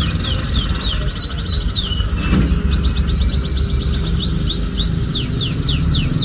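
Canary singing: rapid strings of downward-sweeping whistled notes, breaking into a fast, even trill about three seconds in, over a steady low rumble.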